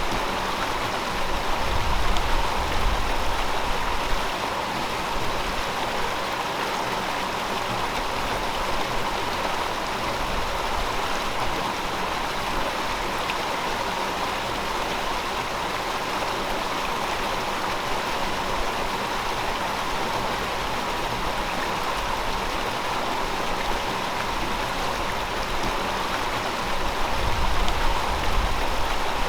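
River water flowing steadily over rocks, an even rushing with a slightly louder, deeper swell twice, near the start and near the end.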